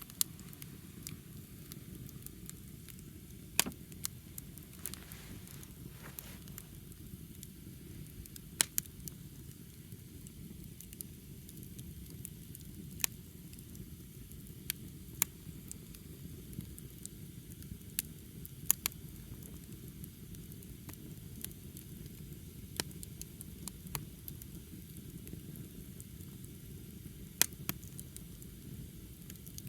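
Wood fire burning: a steady low rumble with sharp, irregular pops and cracks every second or two as the burning wood snaps.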